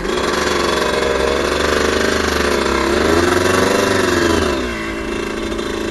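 Suzuki RM125's 125 cc two-stroke single-cylinder engine running, its pitch wavering, climbing around the middle and falling off about four and a half seconds in.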